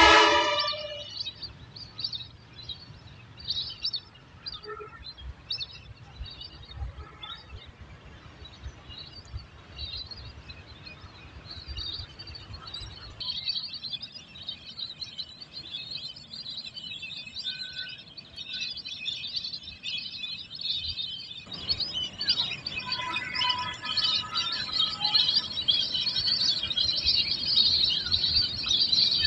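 A flock of birds chirping: many short overlapping calls, sparse at first and growing into a dense, busier chorus in the last third, over a low rumble.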